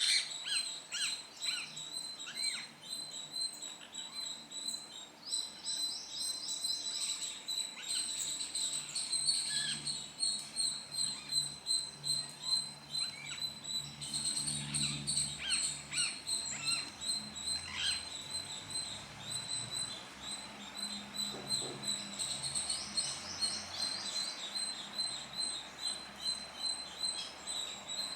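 A parrot chirping: clusters of short, falling chirps, with quick runs of high notes twice, once about a fifth of the way in and again near the end. A steady high-pitched tone runs underneath.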